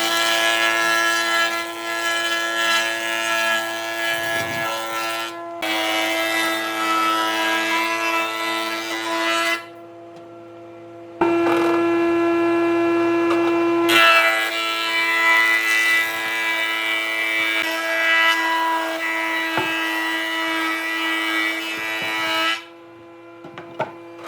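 Electric power tool running on wood with a steady whine of unchanging pitch, in several stretches that start and stop abruptly. It drops away briefly about ten seconds in and again near the end.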